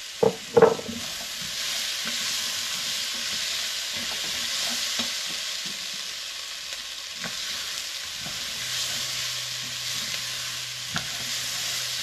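Chopped potatoes, carrots, onion and pot barley sizzling in oil in a pot while a wooden spoon stirs them, with scattered clicks and scrapes of the spoon against the pot. Two short louder sounds come right at the start.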